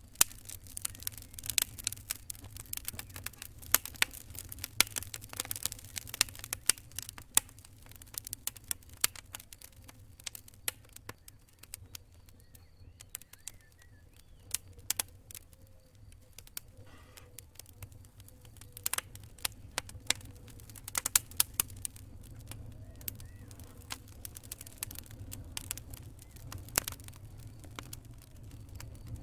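Campfire crackling: burning wood gives off irregular sharp snaps and pops, some much louder than others, over a steady low rumble of the flames.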